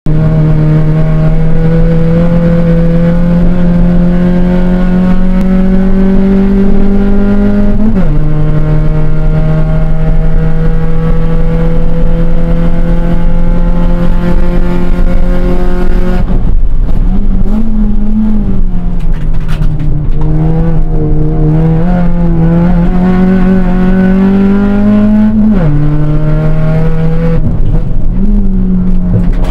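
Honda Civic's D15 four-cylinder engine pulling hard on track, heard from inside the cabin. Its pitch climbs steadily and drops suddenly at upshifts about 8 and 25 seconds in, rising and falling through the corners in between. The exhaust sounds rough because its flex pipe has blown.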